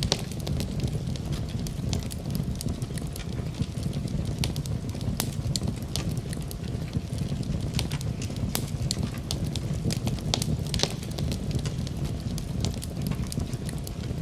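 Campfire crackling, with frequent irregular sharp pops and snaps over a steady low rumble of burning.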